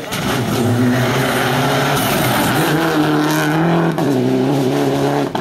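Rally car engine revving hard, its pitch climbing and dropping back several times as it shifts gear.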